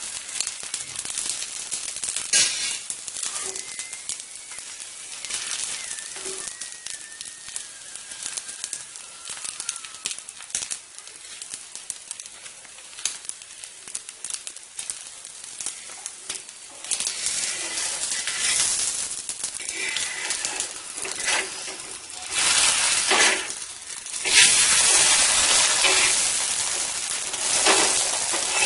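Egg and chapati sizzling on a hot tawa over low heat: a steady crackling hiss with many small pops, growing louder about 17 seconds in and again from about 24 seconds on.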